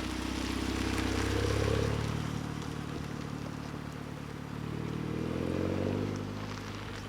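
Audi TTS turbocharged four-cylinder running through a newly fitted Scorpion cat-back exhaust, its pitch and volume rising twice and falling back, at about two seconds in and again near six seconds.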